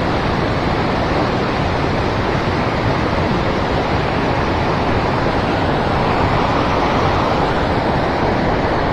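Steady rush of river current flowing around the wading angler, an even, unbroken noise with no change in level.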